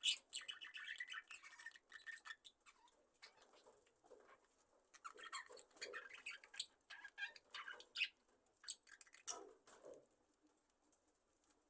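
A flock of budgerigars chirping softly and intermittently, mixed with scattered small clicks and scratchy rustles; it quietens in the last couple of seconds.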